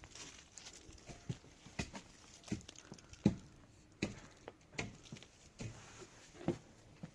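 A regular series of dull thumps, about four every three seconds, loudest a little past the middle.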